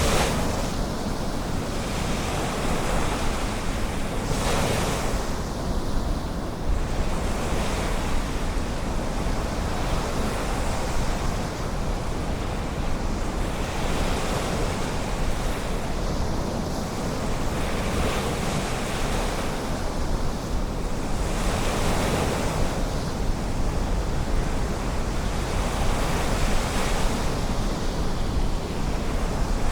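Ocean surf, with a wave breaking and washing in about every four to five seconds, over a steady low rumble of wind on the microphone.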